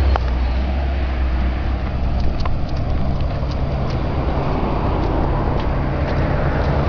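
Car engines running with a steady low rumble.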